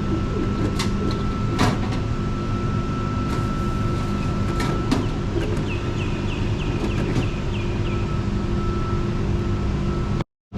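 Drink vending machine running as it dispenses a cold coffee: a steady hum and thin whine, a few sharp clicks, and a quick run of chirping ticks about halfway through. The sound cuts out abruptly just before the end.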